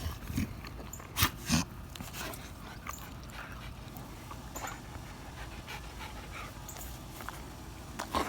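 Dog chewing a dehydrated beef heart treat: two loud crunches about a second and a half in, then quieter scattered clicks of chewing.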